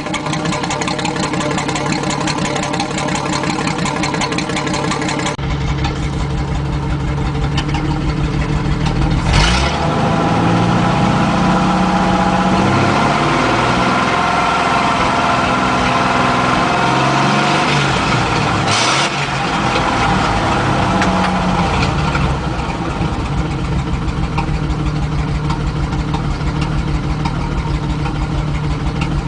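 Ford F3 pickup's straight-piped 226 flathead inline-six running with a loud open exhaust. It idles steadily, then from about ten seconds in its pitch rises and falls repeatedly as the engine is revved, and it settles back to a steady idle about two-thirds of the way through.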